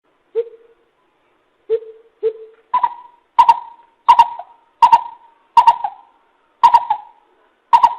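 Coucal calling: a few low hoots, then from about three seconds in a regular run of higher, clipped notes, roughly one every 0.7 seconds.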